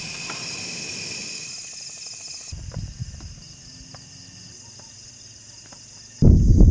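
Insects trilling steadily in several high tones, changing abruptly a few seconds in. Near the end a loud, low rushing rumble starts suddenly.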